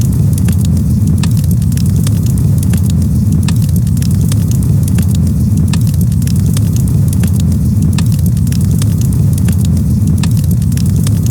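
Campfire crackling: frequent sharp pops and snaps over a steady low rumble.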